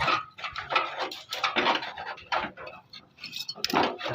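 Irregular clatter and clinking of metal tools and parts being handled, in quick uneven strokes.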